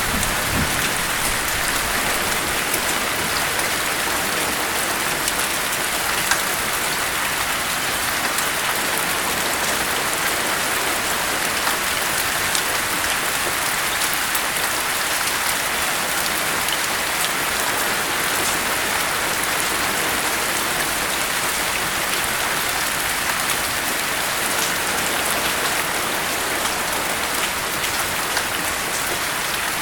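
Steady rain pattering on a surface, a dense, even hiss with many small drop ticks through it.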